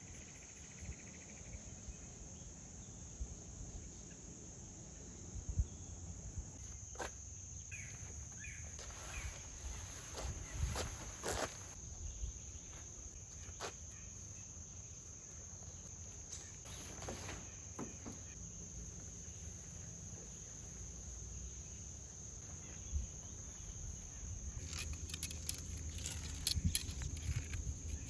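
A steady, high-pitched chorus of insects, one continuous buzzing tone. Scattered faint clicks, knocks and rustles come and go over it, clustering around the middle and again near the end.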